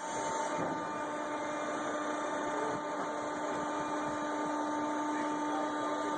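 A motor-driven machine running steadily: an even whirring noise with two steady humming tones in it, starting abruptly.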